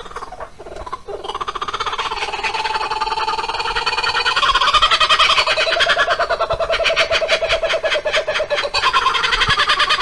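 Birds singing territorial song in a dense, continuous chorus that swells over the first few seconds.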